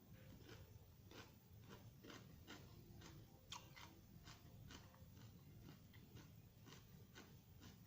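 A person chewing a mouthful of crunchy raw vegetable salad, with faint crunches coming at an even pace of about two or three a second.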